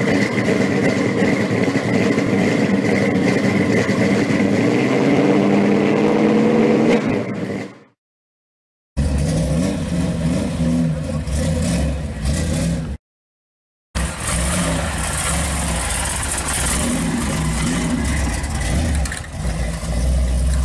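A 1955 Chevy gasser's engine running, revved and rising in pitch at first, then idling with a deep, uneven beat. The sound cuts out twice briefly, about eight and thirteen seconds in.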